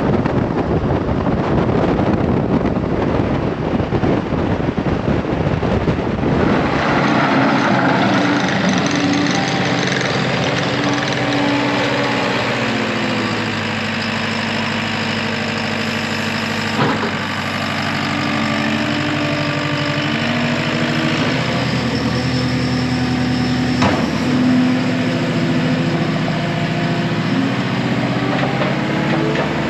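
Diesel engine of a farm loader running while working, its pitch rising and falling as it revs, with a rough rushing noise over the first six seconds or so and a couple of short knocks.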